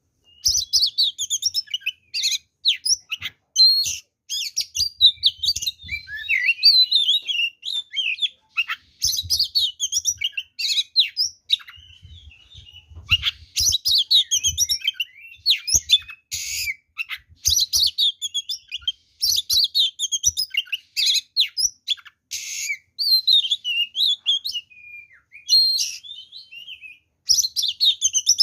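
Oriental magpie-robin (kacer) in full song: a rapid, almost unbroken run of varied whistles, chirps and trills with harsh, rasping notes mixed in. It is the loud, aggressive 'fighting' song that keepers use to provoke other male magpie-robins.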